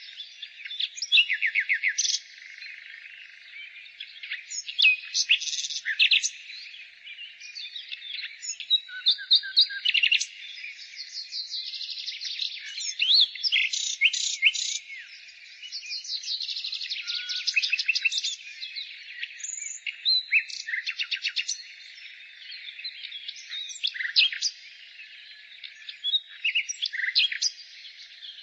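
A chorus of several songbirds singing at once: overlapping chirps, quick trills and rapid runs of repeated notes, over a steady background of more distant bird song.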